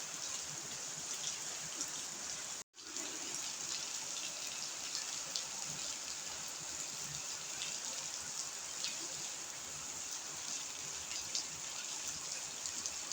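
Heavy rain falling steadily, a dense hiss of drops with many small ticks of individual drops hitting. A brief dropout to silence cuts it about two and a half seconds in.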